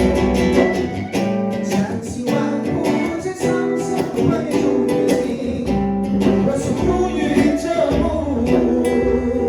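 Acoustic and electric guitars playing together in an improvised jam, with steady strumming under sustained melody notes.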